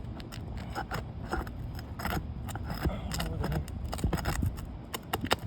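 A metal nail-removing tool scraping and clicking under roof shingles as a stubborn roofing nail is worked loose, many short irregular ticks and scrapes over a low rumble.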